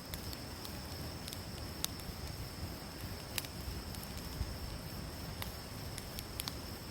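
Wood campfire burning with a steady low hiss and sharp crackling pops, about one every second.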